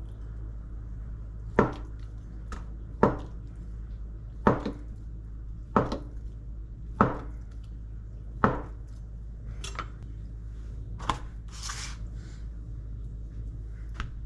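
Knife chopping on a cutting board: six slow, even strokes about a second and a half apart. Near the end come a lighter click and a short rustling hiss.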